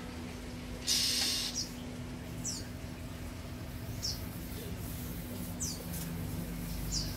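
A small bird chirping: single short high chirps, each falling in pitch, about one every one and a half seconds, over a steady low hum. A short burst of hissy noise about a second in.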